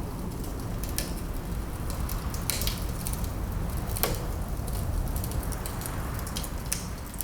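Wood fire crackling, with sharp pops every second or so over a steady low rumble of wind; the loudest pop comes about four seconds in.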